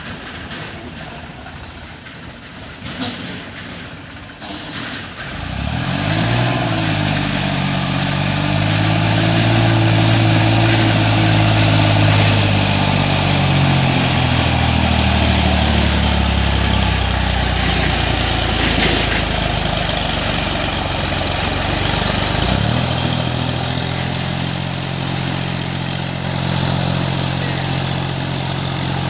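New Holland 3037 tractor's diesel engine working hard under load as the tractor tries to climb through dry sand. It comes up to revs about six seconds in, its pitch wavering and sagging as it labours, then holds at a steady, higher pitch for the last several seconds.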